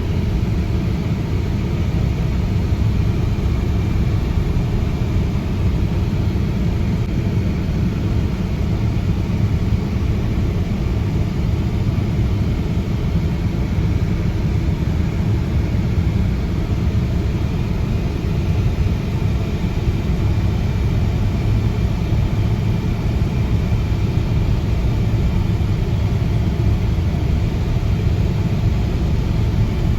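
Vintage tractor engine running steadily, a continuous low rumble with no change in pace.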